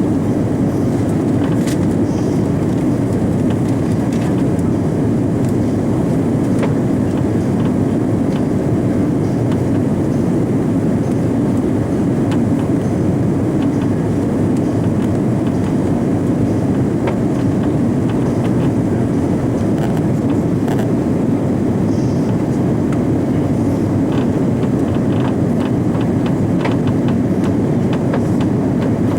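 Steady, deep cabin noise inside an Airbus A340-300 airliner: its four CFM56 jet engines and the airflow around the airframe, unchanging throughout, with a few faint ticks from the cabin.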